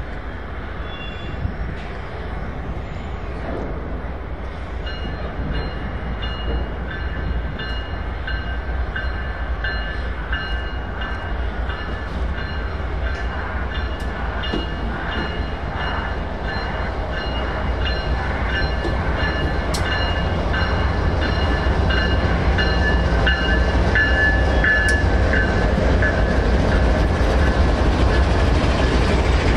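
Train approaching and getting steadily louder, with a low rumble under it. About five seconds in, high, steady ringing tones start above the rumble.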